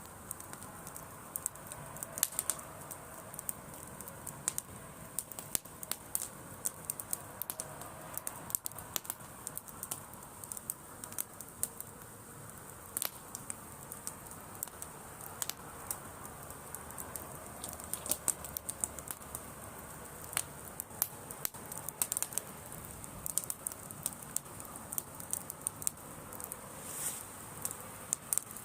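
Driftwood bonfire crackling, with frequent irregular sharp pops and snaps.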